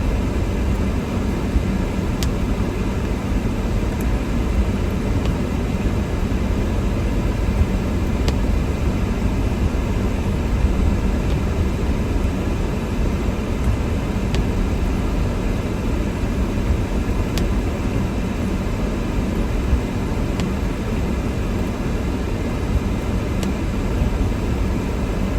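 Steady rumble of a car driving on a snowy road, heard from inside the cabin, with a few faint clicks now and then.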